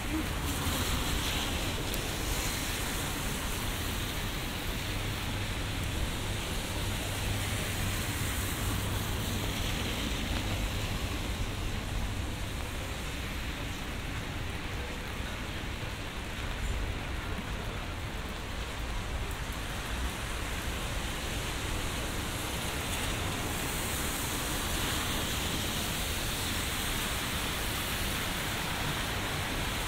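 Steady rain falling on an umbrella and on wet street paving, an even hiss with no breaks, with city traffic faint in the background.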